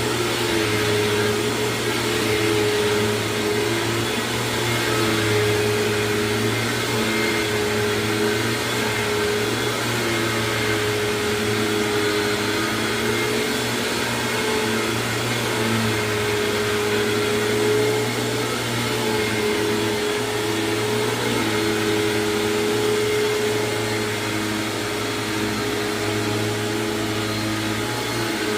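1999 Hoover WindTunnel self-propelled upright vacuum running steadily while vacuuming, with its self-propelled drive in use. Its motor hum wavers slightly in pitch now and then as it moves.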